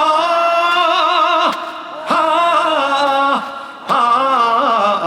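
Live trot singing with a band: long held notes with a wavering vibrato, in three sung phrases.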